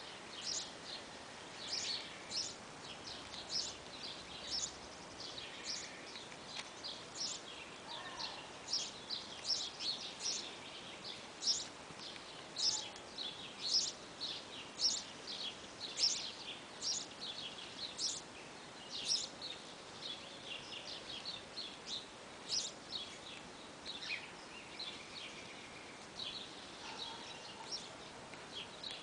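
Small birds chirping busily, many short high chirps a second, over a steady faint outdoor hiss.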